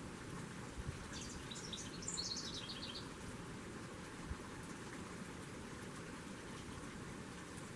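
A small bird chirping a quick run of high notes that steps down in pitch, about a second in and lasting around two seconds, over a steady background hiss. Two soft low thumps, one before the chirps and one after.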